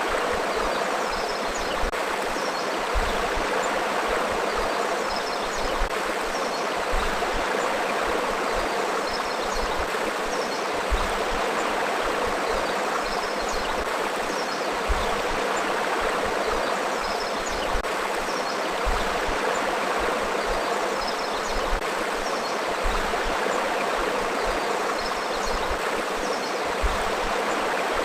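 A river flowing through forest: a steady rush and babble of moving water, even throughout, with faint high chirps now and then.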